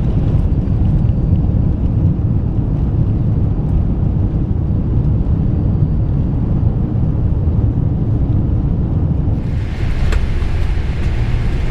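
Steady low rumble of an Airbus A380 heard from inside the passenger cabin as the aircraft rolls along the runway or taxiway after landing. About nine seconds in, a brighter hiss joins the rumble.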